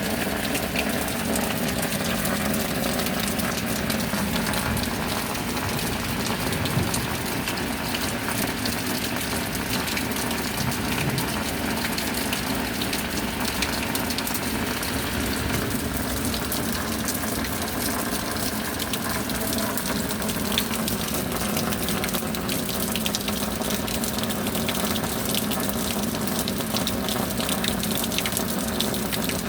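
Steady rain falling, a dense, even patter of drops without let-up.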